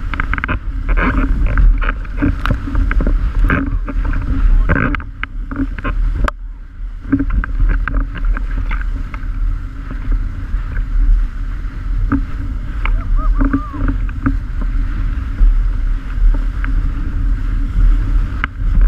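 Strong wind buffeting the microphone as a loud, gusting low rumble, with scattered short knocks throughout.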